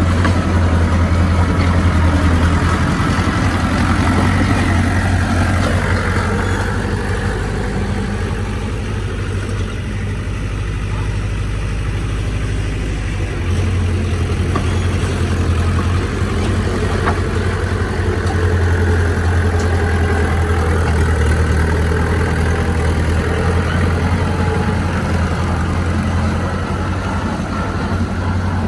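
Heavy diesel engine of earthmoving machinery running continuously. It eases off about a fifth of the way in and picks up again near the middle.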